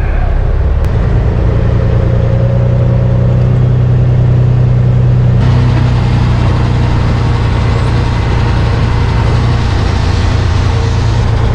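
Semi truck's diesel engine running steadily as the rig pulls ahead; the engine note steps up about a second in, and a rushing noise joins about halfway through.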